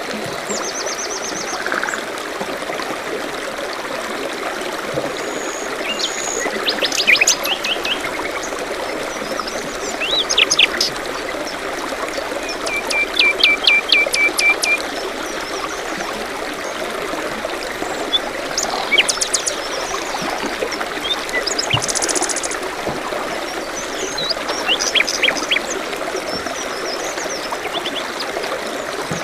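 Small forest stream trickling steadily, with songbirds chirping and trilling on and off over it. The loudest call is a quick run of about ten short, even notes a little before the middle.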